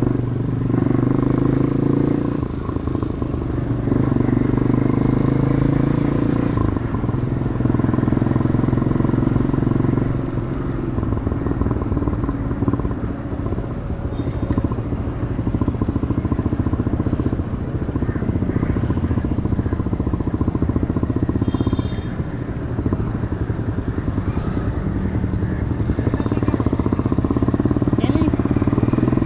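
Demak DTM 150 motorcycle with its stock exhaust, riding in traffic: the engine note pulls steadily, then drops and picks up again several times as the throttle eases off and comes back on.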